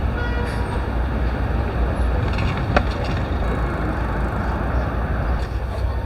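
Street ambience: a steady rumble of road traffic, with one sharp click about three seconds in.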